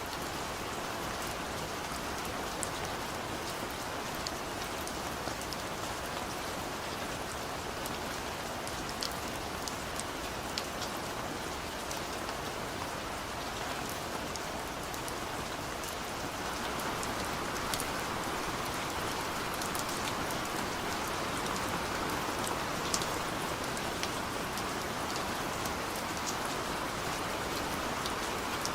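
Heavy rain falling steadily, with individual drops ticking sharply on a surface over the even hiss of the downpour. It grows a little louder a bit past halfway through.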